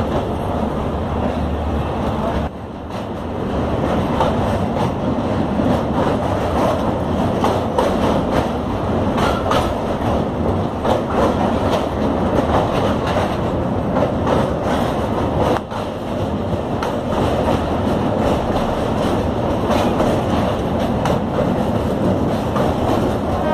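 Passenger train running at speed, heard from inside the coach: a steady rumble of steel wheels on rail with a rapid run of clicks over the rail joints as it crosses a river bridge. It goes briefly quieter twice.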